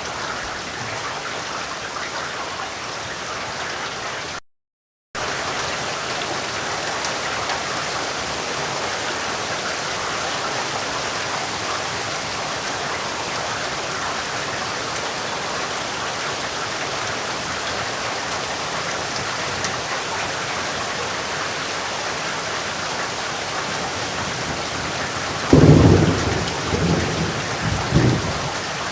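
Steady heavy rain falling. The sound cuts out completely for about half a second around five seconds in. Near the end a loud rumble of thunder rolls for about three seconds.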